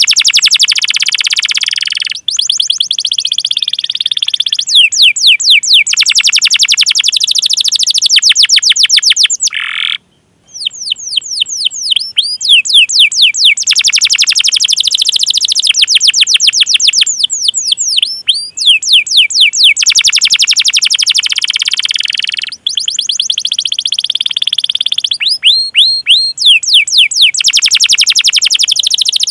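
A domestic canary singing long rolling trills of fast repeated high chirps ('cuit cuit'). The trills are broken by short pauses, with a brief silence about ten seconds in.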